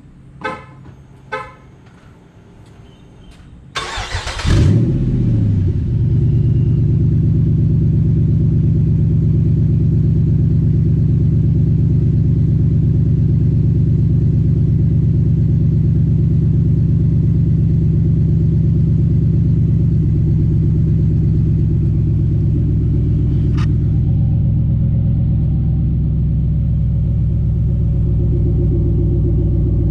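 Two short horn chirps, then the Jeep Grand Cherokee SRT8's V8 cranks, catches with a quick rev and settles into a loud, steady idle through a Gibson cat-back exhaust.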